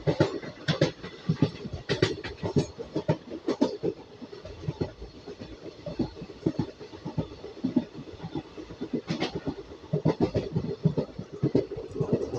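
Train wheels clattering over rail joints and track, a rapid, irregular run of sharp knocks over a steady rumble.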